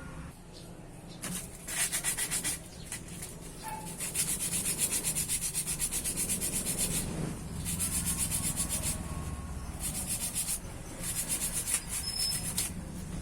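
Quick back-and-forth strokes of hand scraping or sanding on metal parts of a car starter motor, several strokes a second, in bursts with short pauses. This is grime and carbon being rubbed off the starter's parts to clean them.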